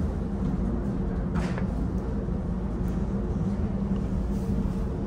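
Steady low engine drone with a constant hum, as aboard a car ferry under way, with a brief hiss about a second and a half in.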